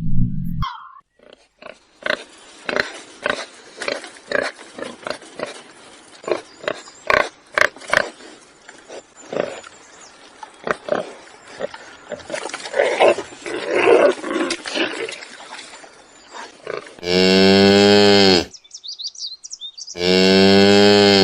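Animal calls: a long string of short, separate calls, then two long, loud drawn-out calls near the end, about three seconds apart.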